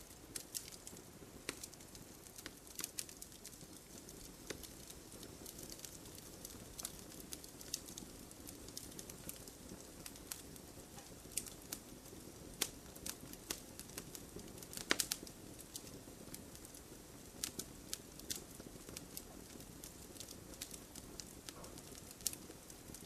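Wood campfire crackling: irregular sharp pops and snaps over a low steady rush of flame, with a quick cluster of louder pops about fifteen seconds in.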